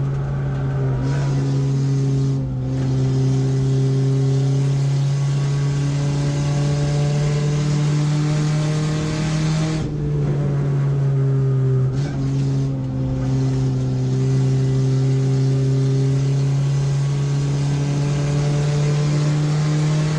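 Race car engine running hard under load, heard from inside its stripped, roll-caged cockpit as a loud, steady drone. The engine note dips briefly about two and a half seconds, ten seconds and twelve seconds in.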